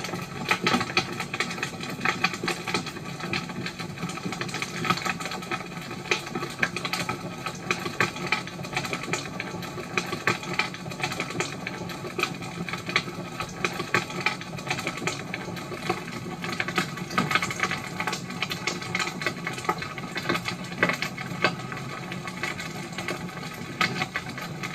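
Firewood burning in an open wood fire, crackling with dense, irregular sharp pops and snaps throughout.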